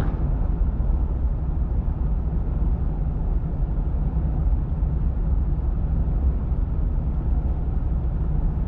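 Vehicle driving along: a steady low rumble of engine and road noise.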